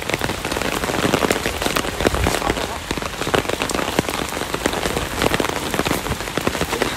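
Rain falling: a dense, even patter of drops striking open umbrellas overhead.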